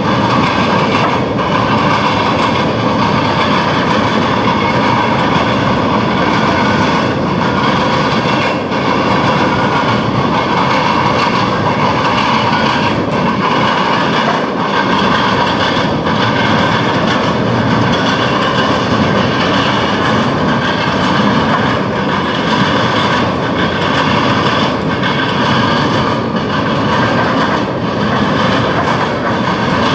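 Freight train rolling past, its wheels clacking over track joints about every second and a half.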